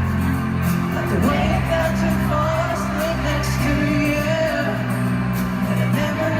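Live pop-rock band playing a slow song with singing over guitars and drums, heard through a venue's PA from within the audience.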